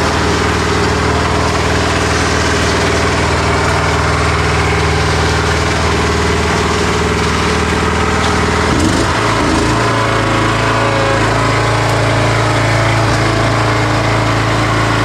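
An engine running steadily at a loud, constant level, shifting to a different speed about nine seconds in.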